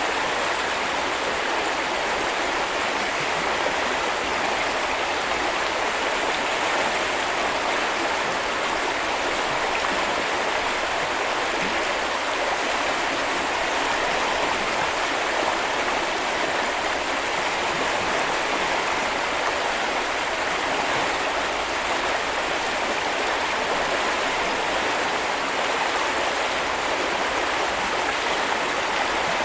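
A small river or brook rushing and flowing steadily, a continuous even wash of water noise.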